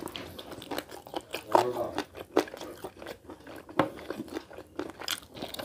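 Close-miked eating sounds of a person eating rice and chicken curry by hand: chewing with wet smacks and clicks of the lips and mouth.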